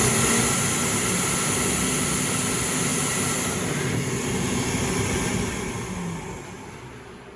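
Mitsubishi Jet Towel JT-16C-WM jet hand dryer running: a loud, steady rush of blown air with a high hiss and a faint motor hum. It winds down over the last second or so.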